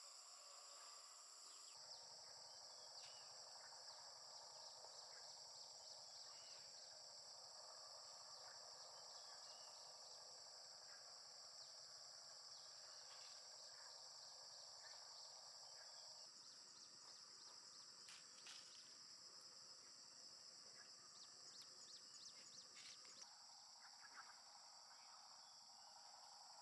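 Faint outdoor ambience: a steady high-pitched insect chorus with scattered light clicks and taps.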